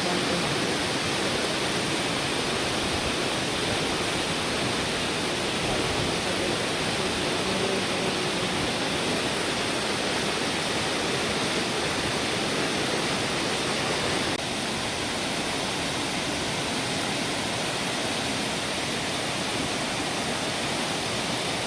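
Steady rush of water, an even noise with no pauses; it drops slightly in level about fourteen seconds in.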